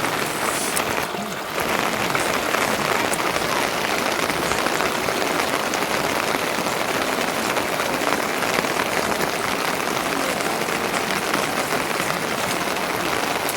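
Steady, dense rain pattering, with a brief lull about a second in.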